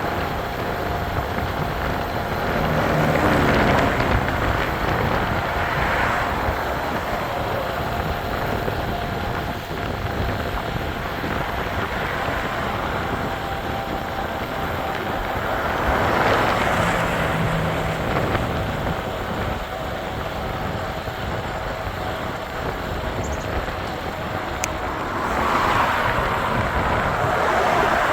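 Motor vehicles passing on the road over steady wind and road noise, three passes swelling up and fading: a few seconds in, around the middle, and near the end.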